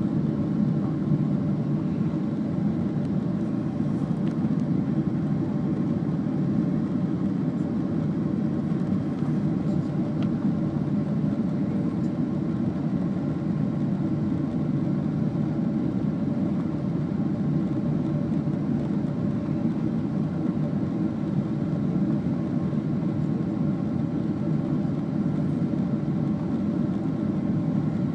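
Steady airliner cabin noise heard from a window seat: a constant low rumble of the jet engines and airflow, with faint steady whining tones above it.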